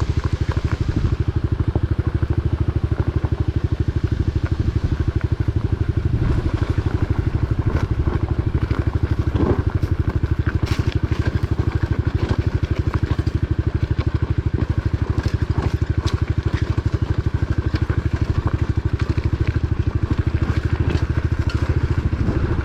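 Pit bike's small single-cylinder four-stroke engine running at low, steady revs while being ridden, with a few faint ticks and crackles over it.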